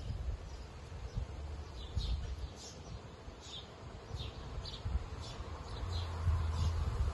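Small bird chirping outdoors, a short high chirp repeated a little more often than once a second, over a low rumble that swells near the end.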